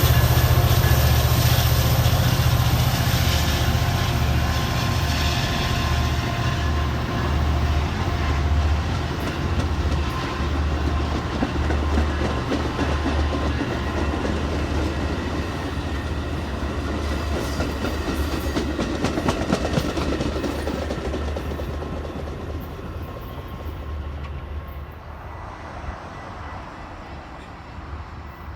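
A train running past on the rails, its low rumble loudest at first and fading steadily as it moves away.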